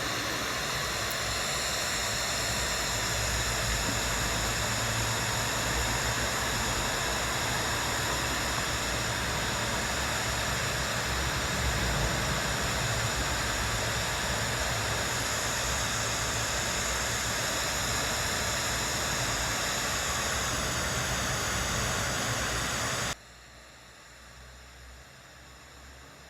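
Steady broad hiss of background noise with thin, steady high whining tones above it. About 23 seconds in it drops abruptly to a much fainter hiss.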